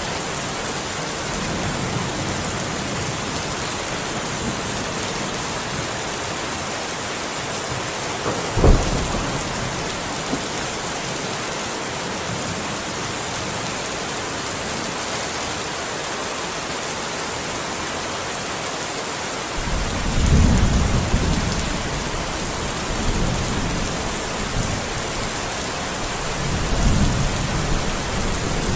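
Steady rain hissing throughout. About a third of the way in comes a single sharp crack of thunder, and from about two-thirds through, low thunder rumbles in repeated swells.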